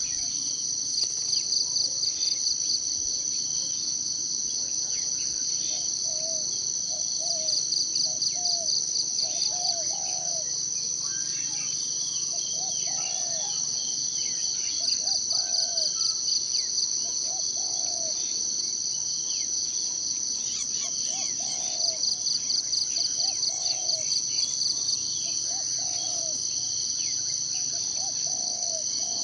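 Continuous high-pitched insect chorus that swells now and then into stretches of fast pulsing. About six seconds in, a short low bird call starts repeating roughly once a second, and there are faint scattered chirps from other birds.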